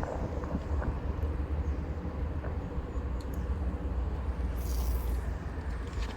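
Steady low rumble of toll-road traffic, with a brief high hiss about five seconds in.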